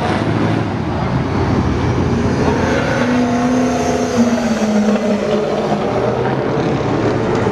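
Passing car engines and exhaust as cars drive by, with one engine note standing out about three seconds in and dropping slightly a couple of seconds later.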